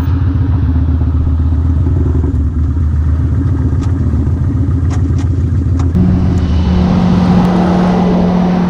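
Motorcycle engine running on the road with a steady low note under road and wind rush. About six seconds in, the note steps up to a higher pitch and the rush grows louder.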